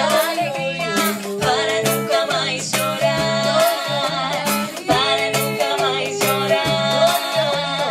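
Acoustic Latin band playing a cumbia-style groove, with plucked strings, bass and hand percussion keeping a steady beat, and a voice singing a wordless or unrecognised sustained melody over it.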